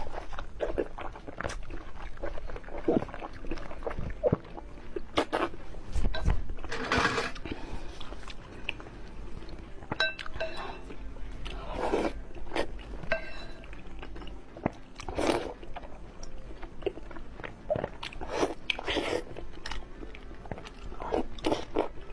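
Close-miked eating sounds of a person eating noodles with egg: irregular bites and chewing with wet mouth clicks.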